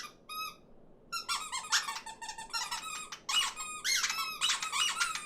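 A flock of small cartoon birds chattering and squabbling in high-pitched chirps and squeaks. One short chirp sounds at the start, then from about a second in the calls crowd and overlap in a quick, busy squabble.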